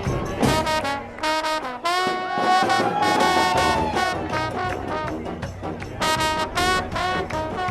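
Music with brass instruments: a run of short notes, then one long held note that rises slightly, then short notes again.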